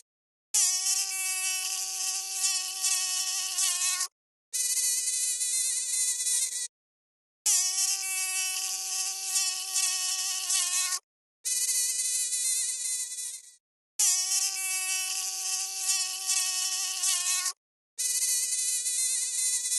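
Mosquito wing whine: a steady, high-pitched buzz in six stretches of two to four seconds, split by brief silences. The pitch alternates between a lower and a slightly higher tone from one stretch to the next.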